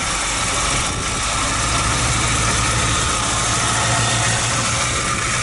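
1957 Chevrolet Nomad's V8 engine idling steadily.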